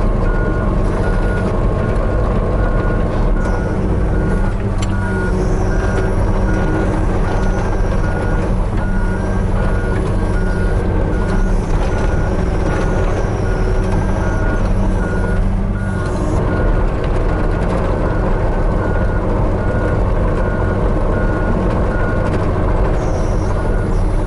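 Hitachi 35U mini excavator's diesel engine running under work with its travel alarm beeping steadily, about two beeps a second.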